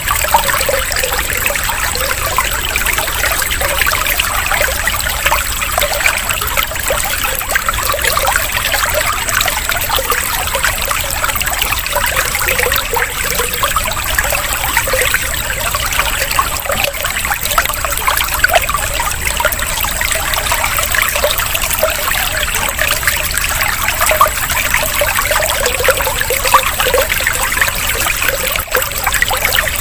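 Running water trickling and splashing steadily and evenly, with no pauses.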